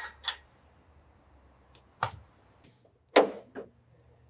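A few separate sharp knocks and clanks of tools on metal as a new muffler is fitted and tightened, about four knocks spread unevenly.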